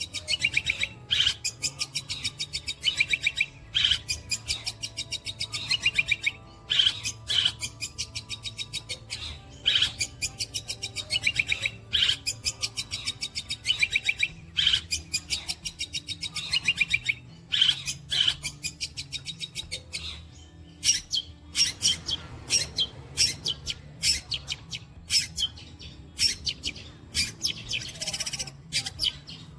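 Long-tailed shrike (cendet) singing a rapid-fire mimicking song: harsh, fast-repeated chattering notes in bursts of a second or two, one after another.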